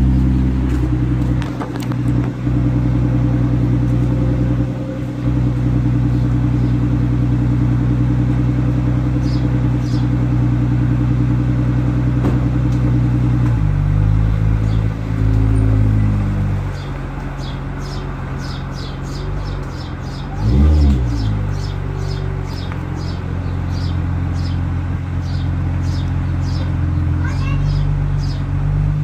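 Infiniti FX35's 3.5-litre VQ35DE V6 idling, heard at the tailpipes. Its note shifts about halfway through, there is one quick rev a few seconds later, and it rises again at the very end.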